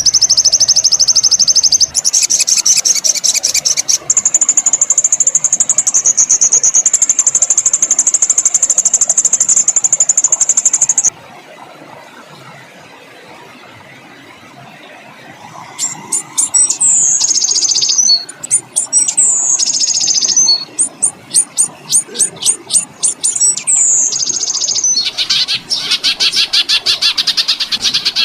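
Songbird song compilation: fast, high-pitched trills and buzzy rolls, then after a short lull a run of sharp notes that each drop quickly in pitch, ending in a dense rapid trill. These are the harsh rapid 'tembakan' and rolling 'ngerol' phrases used as tutor song for competition songbirds.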